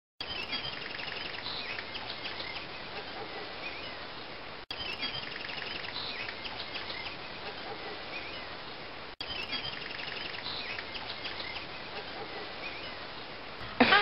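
Wild birds chirping and trilling over a steady outdoor hiss. The same few seconds of birdsong repeat three times, with a brief dropout between each repeat.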